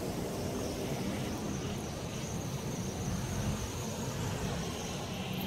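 Distant freight train locomotives rumbling steadily.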